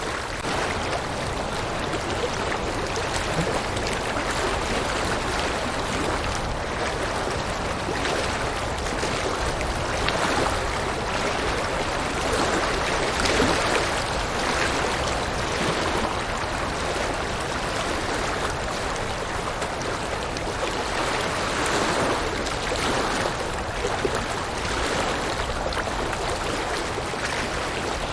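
River water rushing and babbling over rocks, a steady full noise that swells a little now and then.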